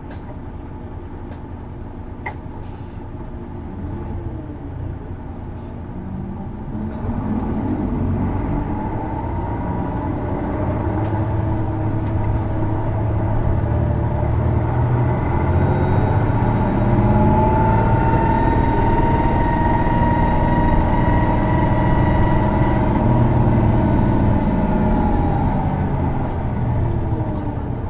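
Isuzu Erga city bus's six-cylinder turbo diesel heard from inside the cabin, pulling hard. The engine is quieter for the first few seconds, then builds from about six seconds in and is held at high revs with a slowly rising whistling tone over the engine note, easing off near the end. It is the characteristic abnormal engine noise of this individual bus, a symptom also found on other Ergas of this generation.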